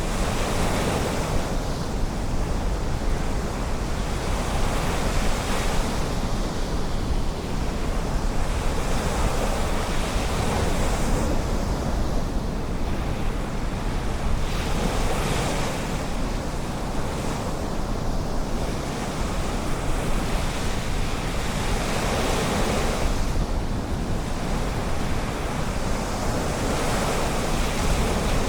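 Ocean surf breaking and washing up a beach, a steady rush that swells every few seconds as each wave comes in, with wind rumbling on the microphone.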